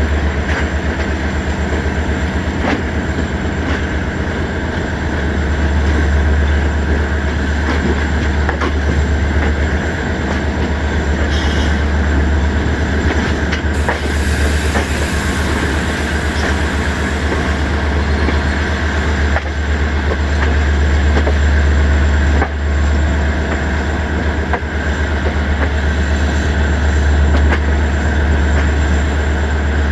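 Moving passenger coach heard from its open window: wheels on the track, with a steady low rumble and occasional sharp clicks over rail joints and points. A hissing rush rises for a few seconds near the middle.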